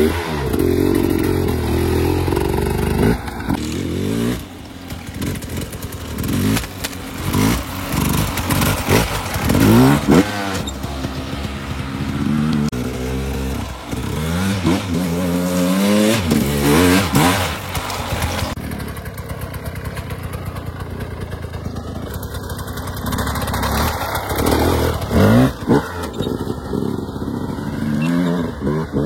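Off-road dirt bike engine revving up and down again and again as it is ridden, its pitch rising and falling in repeated glides.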